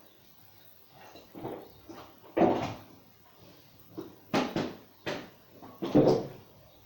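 A string of irregular knocks and clunks as things are handled and set down, the loudest a little over two seconds in and again about six seconds in. No motor is running.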